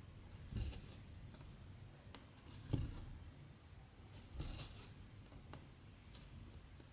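A cross-stitch needle and cotton thread being pushed and pulled through 14-count stitching fabric: short soft scratches and pops, some with a brushing swish as the thread draws through, coming every second or so.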